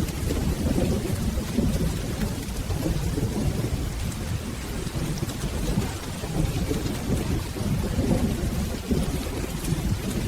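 Steady rainfall with a continuous low rumble of rolling thunder, and faint scattered ticks of drops.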